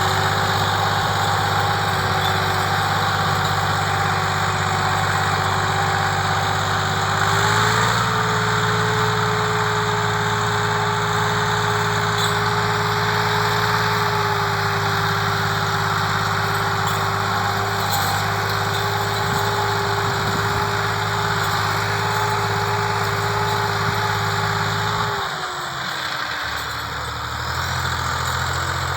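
Tractor engine running steadily, its pitch stepping up slightly about a quarter of the way in, then dropping off near the end as the revs fall.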